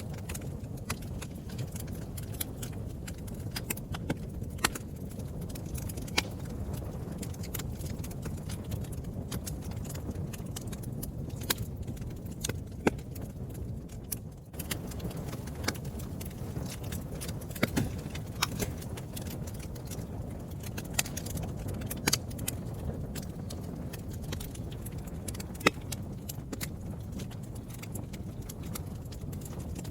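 A fire crackling, with irregular sharp pops and snaps over a steady low rumble.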